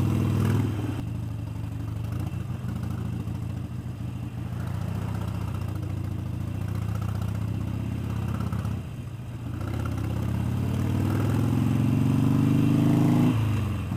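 Motorcycle engine running under the rider, a steady note for most of the time, then speeding up with a rising pitch over about three seconds near the end before the throttle eases off sharply.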